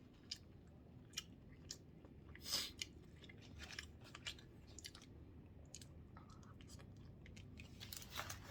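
A person chewing food with the mouth close to the microphone: scattered wet mouth clicks, with a brief louder smacking burst about two and a half seconds in.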